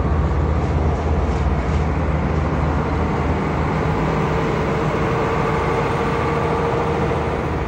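A vehicle's engine running steadily close by, a low, even engine note with a steady higher hum joining about four seconds in.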